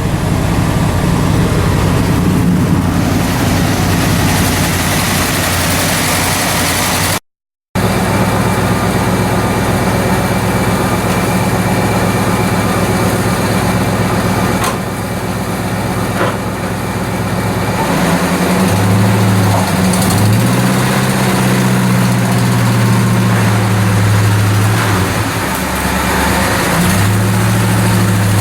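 1956 Ford 600 tractor's gasoline engine running at a steady idle after a cold start; past the middle its note shifts up and down a few times. The sound cuts out for half a second about seven seconds in.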